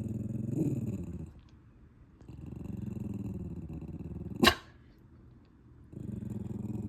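A dog growling low in three long spells with short breaks between them. About four and a half seconds in comes one sharp snap-like sound, the loudest moment.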